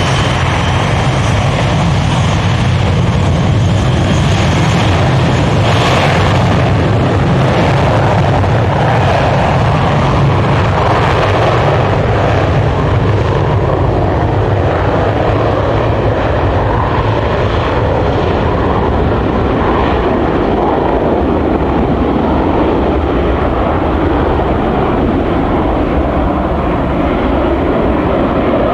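Douglas DC-8's Pratt & Whitney JT3D turbofan engines, a loud, continuous rumble with a broad hiss above it. The high hiss fades from about halfway through while the low rumble stays strong.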